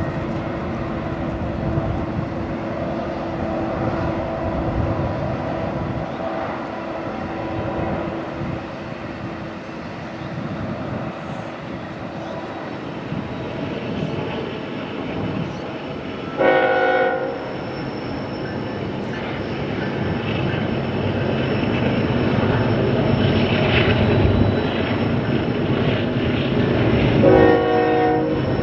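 Freight train running past with a continuous rumble that grows louder in the second half. A diesel locomotive's multi-note air horn sounds two short blasts, one a little past halfway and one at the very end.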